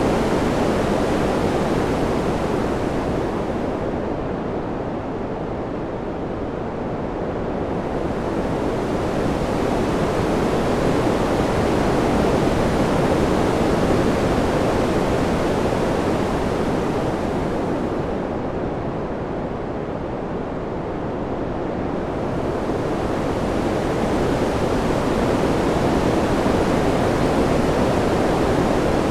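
Steady, soft rushing wind noise that slowly swells and ebbs, its hiss falling away twice, around five and nineteen seconds in, before building again.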